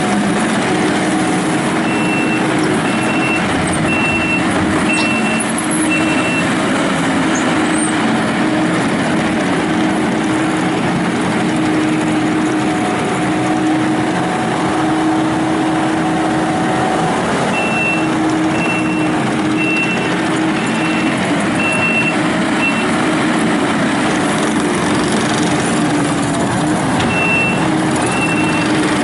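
Kubota SVL95-2S rubber-track skid steer's diesel engine running steadily. Its reverse alarm beeps about once a second in three spells, a few seconds in, again past the middle and near the end, as the machine backs up.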